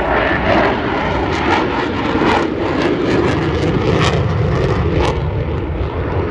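Fast jet flying past in a display, its engine noise loud and crackling.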